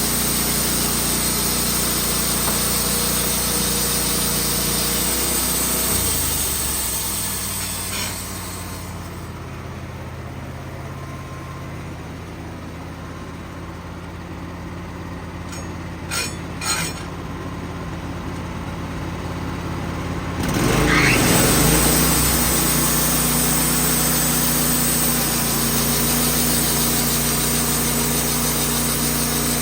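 Wood-Mizer portable band sawmill running at full speed, its engine dropping to idle about six seconds in, a few sharp clicks while it idles, then revving back up to full speed about twenty seconds in.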